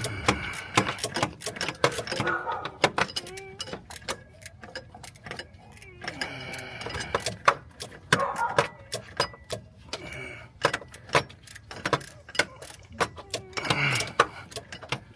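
Irregular metallic clicks and clinks of a hand wrench working a stubborn AC compressor bolt loose in an engine bay, with a muffled voice in places.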